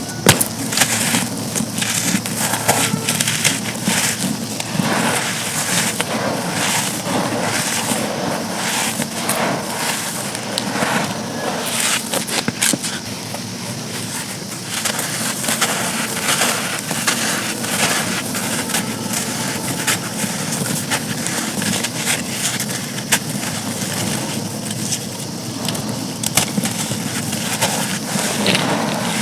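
Dry charcoal chunks being crumbled and crushed: a continuous dense crackling and crunching, full of sharp little snaps.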